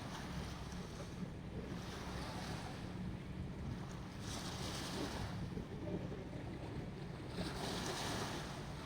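Harbour sea waves washing in, swelling louder three times in turn, with the last wash near the end the strongest, over a steady low rumble.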